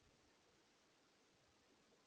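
Near silence: faint steady hiss from the microphone.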